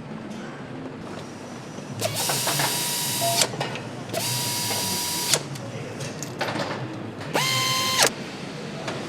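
Handheld power tool run in three short bursts, each a steady whine with a hiss, over the steady hum of an assembly line.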